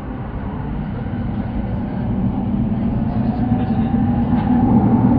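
Sotetsu Line electric train accelerating, heard from inside the carriage: steady running noise with a motor whine that rises slowly in pitch and grows louder.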